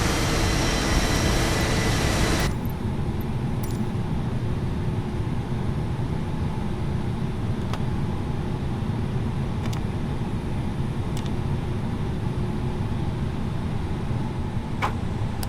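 Airbus A330-900neo cabin: the Rolls-Royce Trent 7000 engines' whine, with several steady high tones, cuts off abruptly about two and a half seconds in, leaving a steady low rumble of cabin air and a few sharp clicks near the end.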